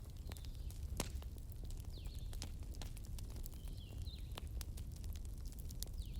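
Campfire crackling: scattered sharp pops and snaps over a steady low rumble, with a few short, high, falling chirps in the background.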